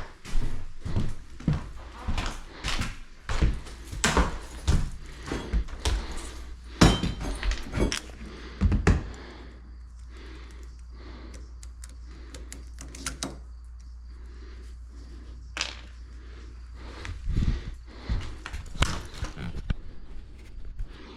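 A quick run of knocks, clunks and clatter, dense for the first half, then a few scattered knocks after a quieter stretch, in a small room.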